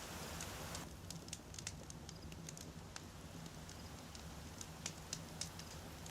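Wood campfire crackling, with scattered sharp pops and snaps of burning firewood over a faint steady hiss and low rumble; the hiss thins out a little under a second in.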